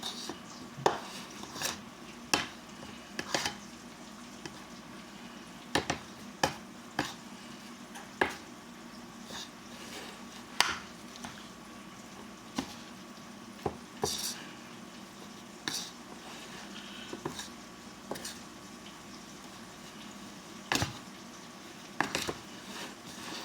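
Chicken strips being tossed and coated in flour in a pot, with irregular knocks and clinks against the pot every second or so, over a faint steady sizzle of frying oil.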